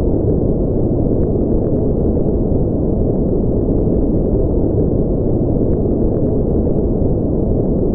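Steady synthetic noise for sleep, deep rather than hissy: its sound sits in the low range, with no high hiss. It runs evenly, without change.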